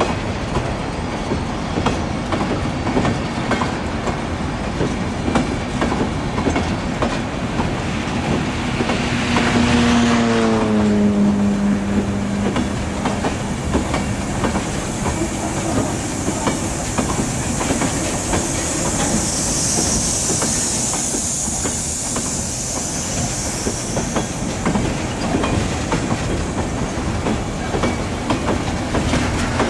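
Loaded freight hopper cars rolling past, with steady wheel clatter and rapid clicks over the rail joints. About ten seconds in, a brief hum drops in pitch, and around twenty seconds in a high hiss rises over the clatter for a few seconds.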